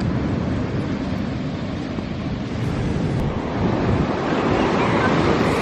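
Ocean surf breaking and washing in, with wind rumbling on the microphone; the wash grows louder toward the end.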